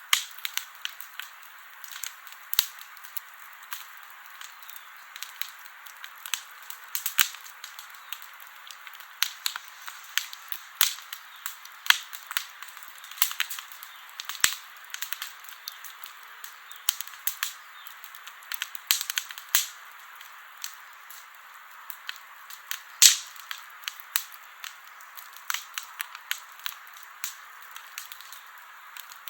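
Wood campfire crackling: a steady hiss of burning wood with frequent irregular sharp pops and snaps, one especially sharp pop about three-quarters of the way through.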